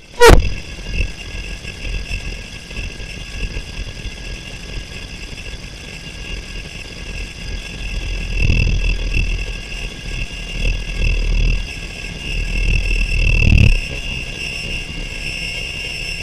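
Harsh noise music built from forge sounds: one loud strike just after the start, then a steady, engine-like drone with high held tones over a low rumble that swells twice.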